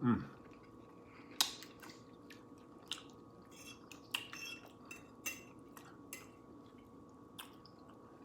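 Close-miked chewing and mouth sounds of eating, with scattered short clicks of cutlery and dishes, over a faint steady hum.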